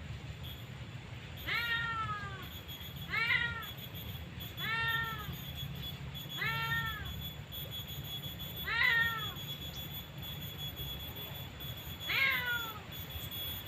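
A cat meowing six times at irregular intervals, each meow a short call that rises and falls in pitch, over a steady low rumble.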